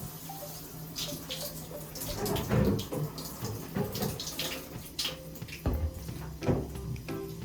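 Water splashing and running irregularly while a cat is washed in the bath, with a few louder splashes and knocks.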